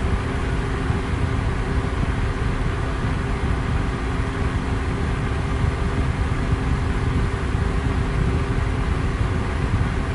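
Electric fan running steadily: a constant rush of moving air, heaviest in the low end, with a faint steady motor hum underneath.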